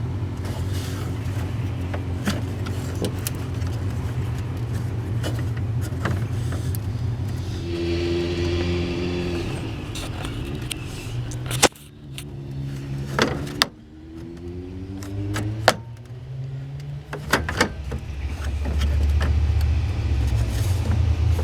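A steady low motor hum with scattered sharp clicks and knocks of parts being handled during radiator removal; about halfway through the hum drops away for a few seconds, with some gliding tones, then returns.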